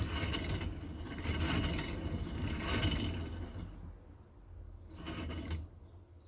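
Vintage hand-cranked pillar drill being turned by hand, its gears whirring and clicking in repeated surges. The running dies down after about three and a half seconds, and a last short spin about five seconds in stops shortly before the end.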